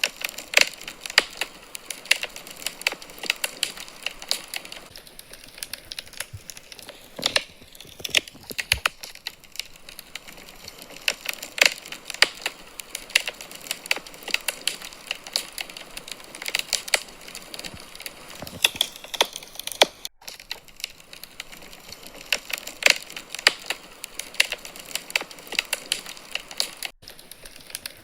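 Wood fire burning in a fireplace, crackling with many irregular sharp pops and snaps over a soft hiss.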